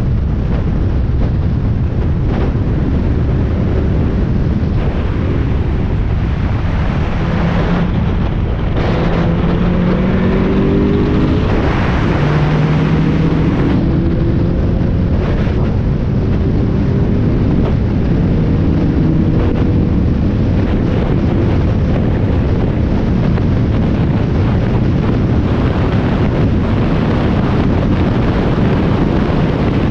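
Onboard sound of a Spec Miata (Mazda MX-5) four-cylinder race car at speed, heavy with wind noise on the microphone. Between about 7 and 14 seconds in, the engine note steps up and down in short pieces as the driver works through the gears, then rises steadily as the car accelerates.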